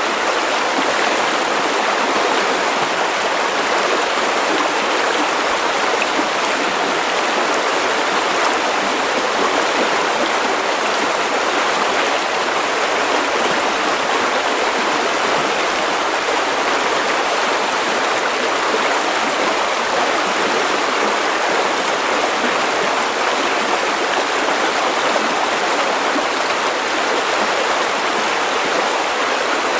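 River water running over stones, a steady, even rushing and babbling.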